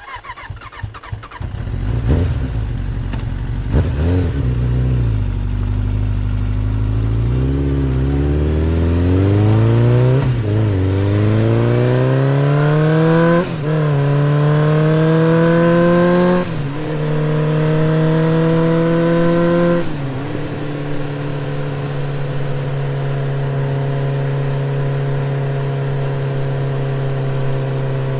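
A motor vehicle engine accelerating through the gears: the engine note climbs in pitch, falls back at each of several gear changes, then holds a steady pitch for the last several seconds as if cruising.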